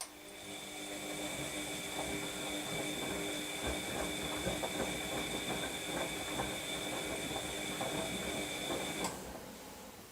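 Washing machine's drum motor starting with a click and turning the drum during the wash for about nine seconds: a steady whine with irregular knocks from the tumbling load. It cuts off suddenly near the end.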